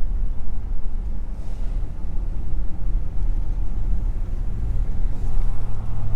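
Ram 1500 pickup truck driving: a steady low engine and road rumble with a constant hum.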